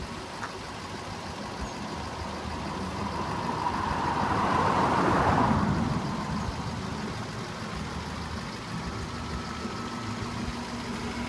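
Audi S8 D2's 4.2-litre V8 idling steadily, with a rushing swell that rises and fades, loudest about halfway through.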